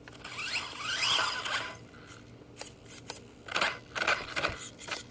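Electric motor of a radio-controlled truck whining up in pitch as it speeds up, then scattered clicks and scrapes of its gears and tyres in the second half.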